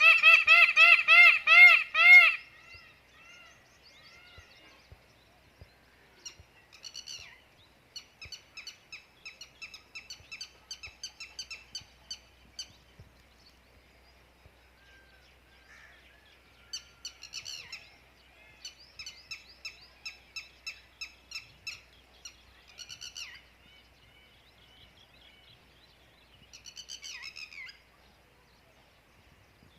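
Birds calling: a loud, rapid series of repeated pitched calls for about the first two seconds. Then smaller birds chirp in quick runs of high notes, in bouts with short pauses.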